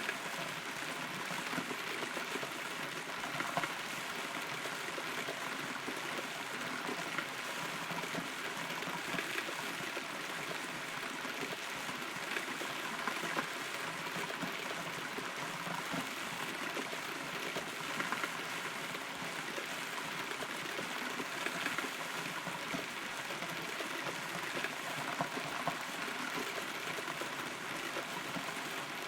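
Steady rain heard from inside a hollow rotten tree, with many separate drops tapping close by over an even wash of rainfall.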